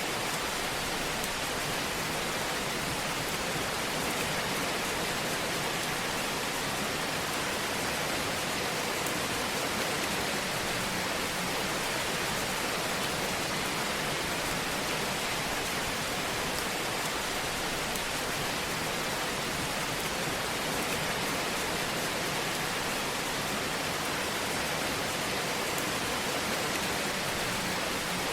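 Wood fire in a fireplace crackling with a steady, dense hiss, an even fine crackle without loud pops.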